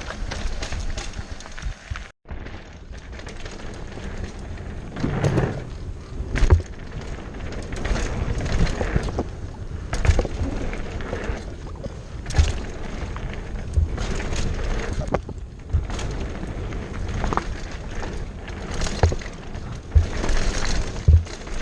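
Mountain bike riding down a rough dirt trail: tyres rolling with frequent short knocks and thumps over bumps, and wind on the microphone. A brief dropout about two seconds in.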